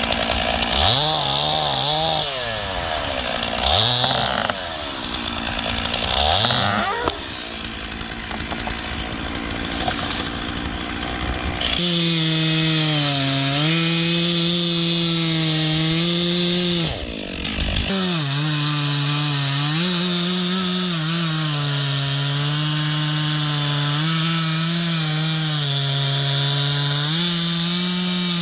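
Stihl 461 two-stroke chainsaw revved up three times in quick succession, then held at full throttle cutting ash from about twelve seconds in. Its pitch sags and recovers under load, with a brief drop off the throttle midway through.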